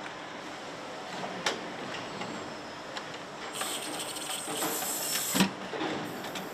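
Machinery noise on an engine assembly line: a steady hum of machines with a few sharp clicks, and a high hiss like an air release from about halfway through that cuts off with a loud knock.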